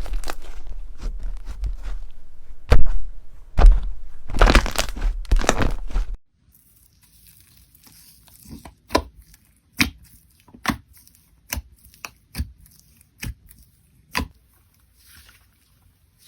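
Slime being worked close to the microphone: about six seconds of dense crunching and crackling with a few louder crunches. After a sudden cut comes a run of sharp, separate pops and clicks, about one a second.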